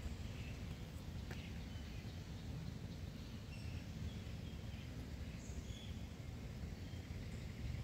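Birds giving short, scattered chirps over a steady low rumble of outdoor background noise.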